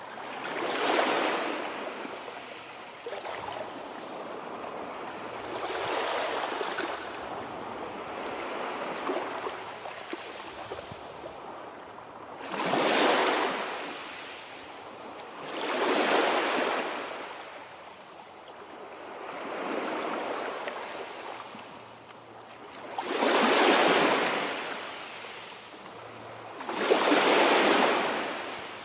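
Sea waves breaking on a shore: surf noise that swells and falls away in repeated surges, one every few seconds, the strongest ones in the second half.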